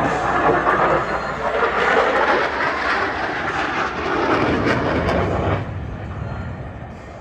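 F-16 Fighting Falcon jet engine at high power as the jet passes, a loud rushing noise that drops off sharply about five and a half seconds in and then fades.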